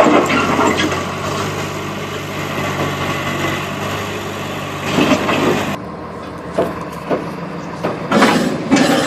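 Heavy truck engine running with a steady low hum, under scattered knocks and clanks. About six seconds in the engine sound drops away abruptly, leaving separate knocks and rattles.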